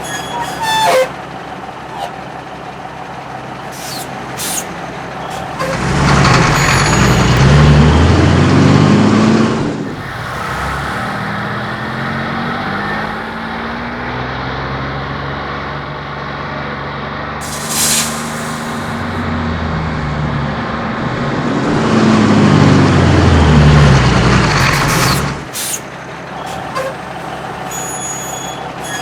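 Truck engine sound effect for a cartoon fire truck: it revs up with its pitch rising and falling, runs on, revs again and cuts off, with a short hiss about midway.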